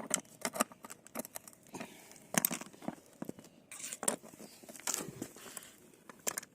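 Irregular clicks, knocks and rustling of hands handling and refitting a part onto a greased Opel Omega B door check strap.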